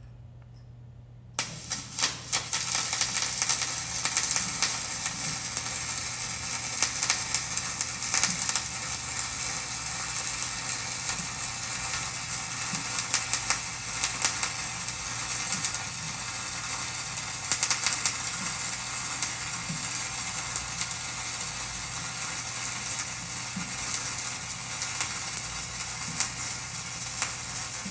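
Flux-core wire-feed welding arc crackling steadily as a bead is run, with dense irregular sputtering clicks. It strikes about a second in and stops near the end.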